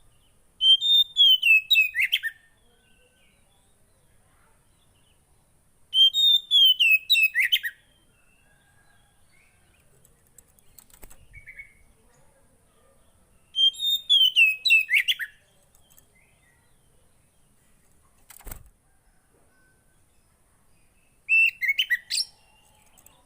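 A songbird, the kind Indonesian keepers call 'burung poci', singing four short bursts of rapid chirping notes, each run falling in pitch, several seconds apart. A short knock comes between the third and fourth bursts.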